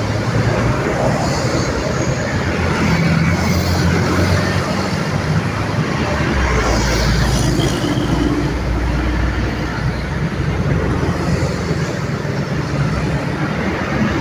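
Busy road traffic: a continuous mix of vehicle engines and tyres passing. A deeper engine drone comes in about halfway through and fades a few seconds later.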